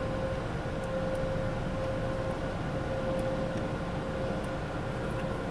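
Steady mechanical hum: a constant mid-pitched tone over an even low rumble.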